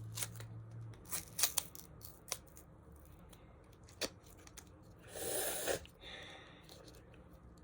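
A gum packet being opened by hand: scattered small clicks and crinkles of the wrapping, with a short tearing rip about five seconds in.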